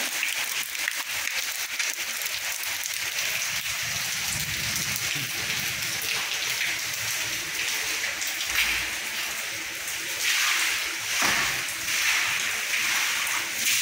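Rain falling steadily, a dense even hiss, with a couple of brief dull thumps in the second half.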